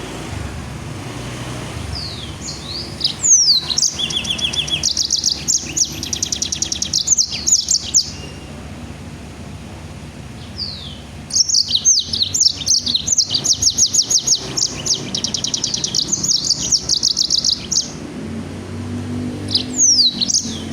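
A caged songbird singing vigorously: two long bouts of rapid-fire, sharply repeated high notes, the dense 'shooting' (nembak) phrases prized in masteran song, separated by a pause with a few short down-slurred calls.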